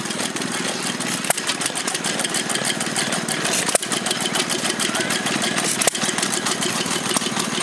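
A small 1920 stationary engine running steadily with a fast, even chugging beat while it drives a water pump. A few sharper clicks stand out about a second, four seconds and six seconds in.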